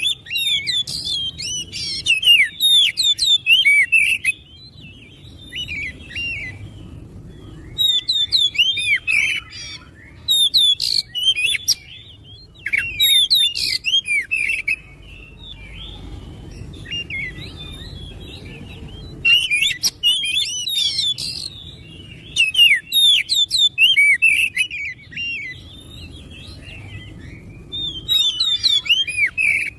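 Oriental magpie-robin (kacer) singing in repeated bursts of rapid, varied whistles and chirps, each burst lasting a second or two with short pauses between.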